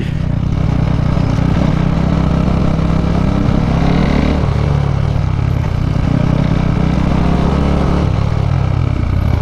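KTM RC 390's single-cylinder engine through an Akrapovič exhaust, running steadily under way. Its pitch climbs a little, then drops about four and a half seconds in, with another small shift near the end.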